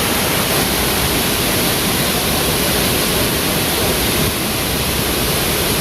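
Lapopu waterfall's falling water rushing loud and steady.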